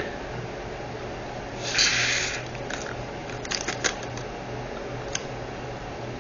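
Small resin diamond-painting drills poured through a funnel into a storage container: a short rattling pour about two seconds in, then a few light clicks.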